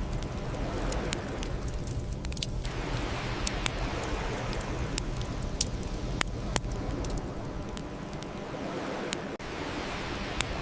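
Bonfire burning, with irregular sharp crackles and pops from the burning wood over a steady low rumble of flames.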